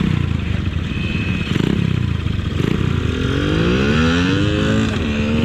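Several small mini-bike engines running rough at the start line, then about three seconds in revving up and accelerating away with rising pitch. Another engine climbs in pitch near the end.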